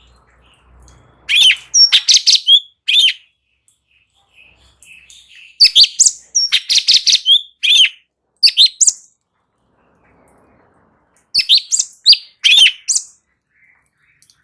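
Cucak cungkok singing in three loud bursts of rapid, high whistled notes sliding up and down, with short pauses between the phrases.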